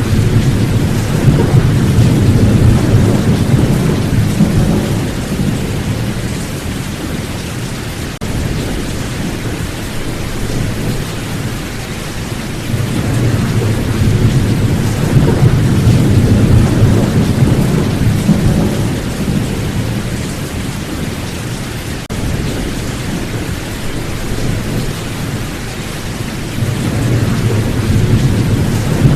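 Steady rain with rolling thunder: low rumbles swell and fade under the rain, loudest at the start, again in the middle, and building once more near the end.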